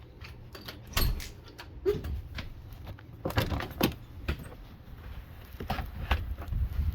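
A run of knocks and clicks from something being handled, with a brief squeak about two seconds in. Low wind noise on the microphone swells near the end.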